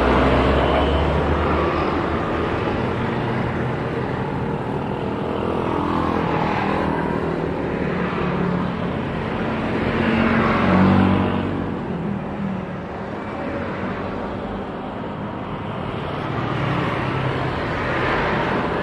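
Steady traffic noise, with vehicles passing close several times, the loudest about eleven seconds in.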